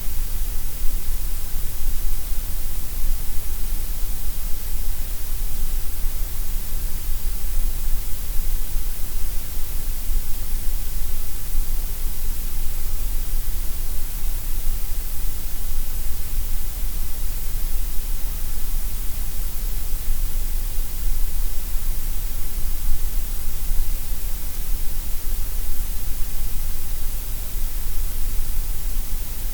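Synthetic grey noise: a steady, unchanging hiss, loud, with a strong deep rumble at the bottom and a bright top, thinner through the middle.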